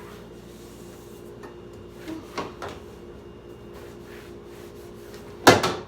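Household handling sounds while cleaning out a refrigerator: a few light knocks and rubs about two seconds in, then one loud sharp knock of something set down or hitting a hard surface about five and a half seconds in, over a steady low hum.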